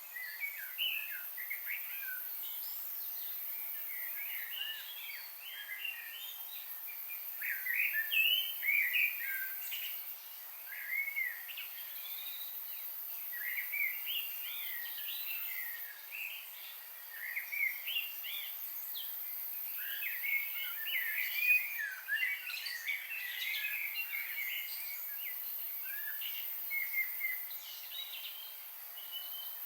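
Several birds chirping and singing together, a dense run of short, quick, overlapping notes that thickens at times, over a steady high-pitched hiss.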